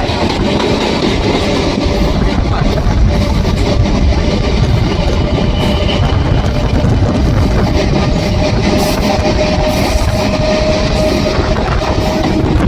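Electric train running on the rails with a loud, steady rumble, and a held whine joining in about halfway through.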